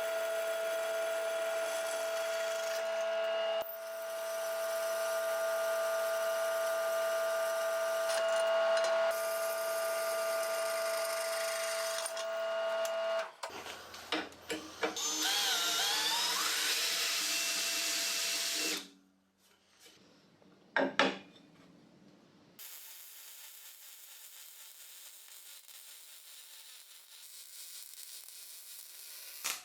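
Workshop power tools. An electric tool runs with a steady whine for about thirteen seconds, then a harsher, noisier tool sound with a wavering pitch follows. After a short pause with a sharp click, a faint steady hiss runs near the end.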